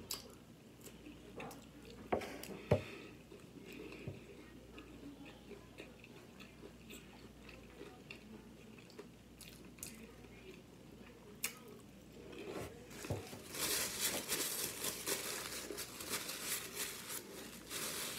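Close-up mouth sounds of biting and chewing crunchy fried food, with a couple of sharp crunches about two to three seconds in. Near the end a paper napkin crinkles and rustles in the hands for several seconds.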